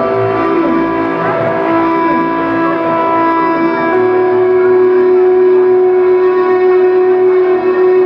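Live band playing an instrumental passage: held droning notes, with a few sliding pitch glides in the first half that settle into steady sustained tones.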